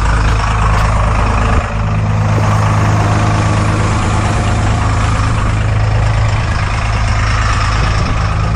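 2003 Cummins 5.9-litre inline-six turbodiesel idling steadily while still cold, after a cold start at −10°F with no block heater and the intake grid heater unplugged. There is a brief dip in the sound about a second and a half in.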